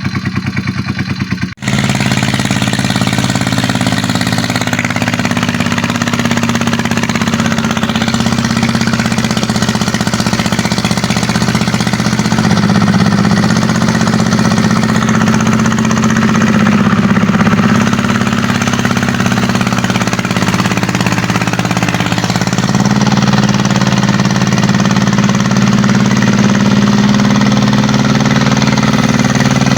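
Kubota tractor's diesel engine running steadily with a knocking clatter, broken by a brief cut about a second and a half in.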